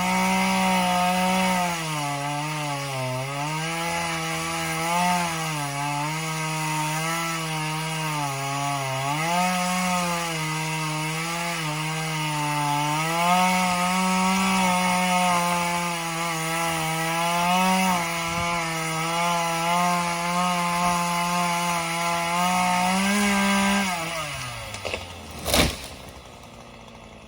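Chainsaw cutting into a standing pine trunk, the engine held at high revs, its pitch sagging and recovering again and again as the chain bites: the back cut behind the felling wedge. Near the end the throttle is released and the engine drops to idle, and a single loud thump follows.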